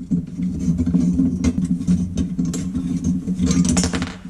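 Metal clicks and scrapes as the parts of an old Coleman lantern are turned and unscrewed by hand, over a steady low machine hum. The clicks come thickest near the end.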